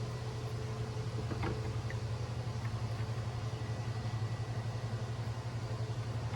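Steady low mechanical hum with a fast even pulse, with a couple of small clicks about a second and a half in.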